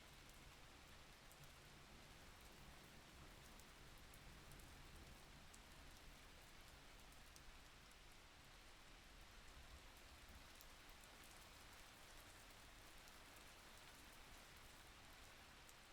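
Faint, steady rain, with the light patter of individual drops over an even hiss.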